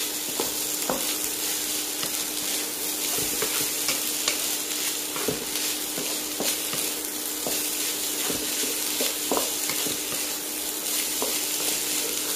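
Rice stir-frying in a non-stick pan: a steady sizzle, with a wooden spatula scraping and tapping against the pan at irregular moments, over a steady low hum.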